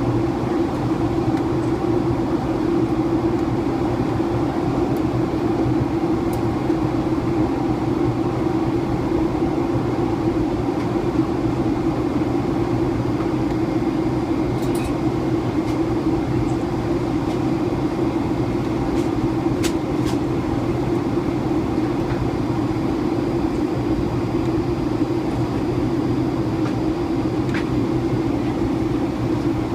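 Steady cabin noise inside a Boeing 757 descending toward landing: engine and airflow drone with a constant low hum, broken only by a few faint clicks.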